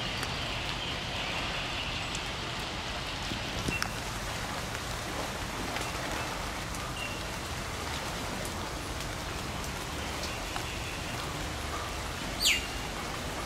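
Steady rain falling, an even hiss. A few short high chirps sound through it, and a brief, loud falling whistle-like call comes near the end.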